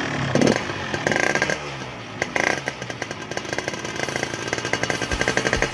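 Yamaha RX-King's single-cylinder two-stroke engine running through an aftermarket racing exhaust, revved in short blips about a second apart, then idling with a rapid, even beat.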